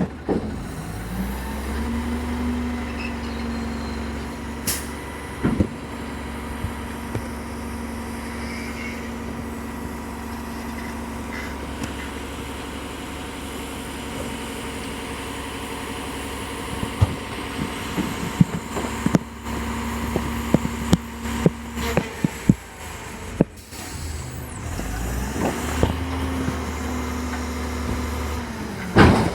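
Dumpster truck's engine revved up and running steadily, with a held whine that rises about a second in and drops away around 22 s. A run of metal clanks and bangs comes before the drop. The whine rises again near the end and a loud bang follows.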